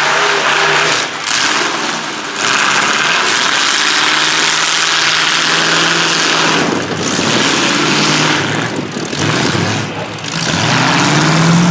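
Engines of demolition-derby trucks, vans and SUVs running and revving over a dense rush of noise. Their pitch rises and falls, with a rev climbing near the end.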